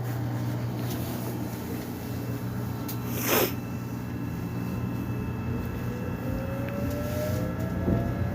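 Subway train's steady low hum, with a short hiss about three seconds in. Midway the electric traction motors' whine starts rising in pitch as the train gathers speed.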